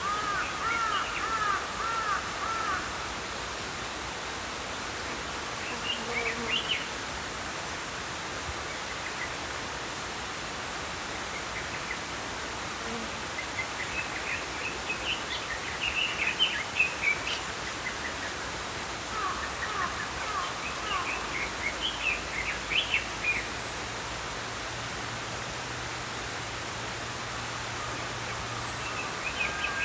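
Small songbirds chirping in several short bursts of quick repeated notes over the steady rush of a flowing stream, with a steady high-pitched buzz underneath.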